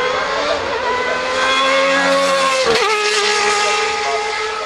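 A race car's engine accelerating hard, its pitch climbing steadily, then dropping suddenly about halfway through at what sounds like an upshift, and carrying on at a lower, slowly falling pitch.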